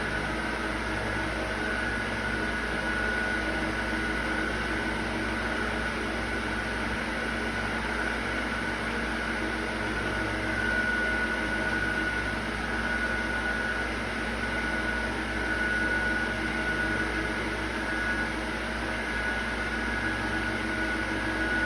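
Steady mechanical hum with a faint, slightly wavering high whine, constant throughout.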